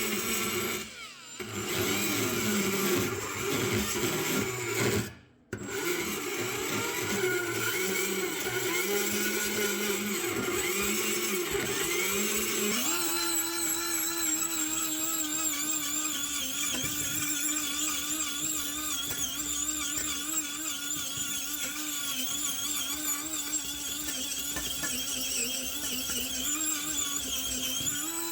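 Electric power tool motor running with a steady whine, broken off twice briefly near the start, then settling to a steadier, higher pitch partway through.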